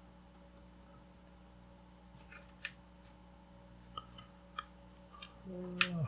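Scattered sharp clicks from the controls of a Drake 2-B receiver being switched and turned, over a faint steady hum. Near the end a short pitched sound falls in pitch.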